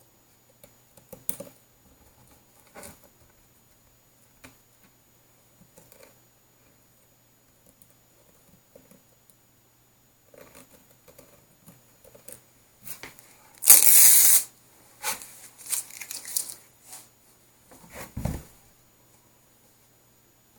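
Knife blade trimming the rough outside edges of drilled holes in a wooden amp cabinet: scattered scrapes and small clicks, one loud tearing scrape about two-thirds of the way in, then a few more quick scrapes and a dull knock near the end.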